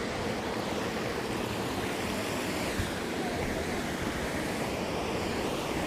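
Waterfall water rushing in a steady, continuous roar, with a small knock about three seconds in.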